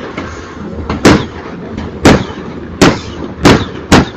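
A series of loud, sharp bangs, five in about three seconds, spaced about a second apart and then coming closer together, over a steady background of noise.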